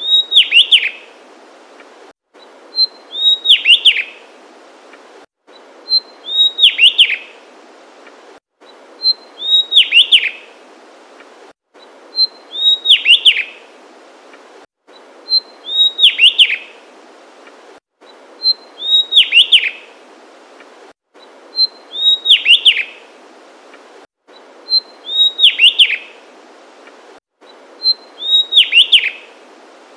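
Javanese tesia singing: a short high note followed by a quick falling run of slurred notes, the same phrase repeated about every three seconds, about ten times, over a steady background hiss.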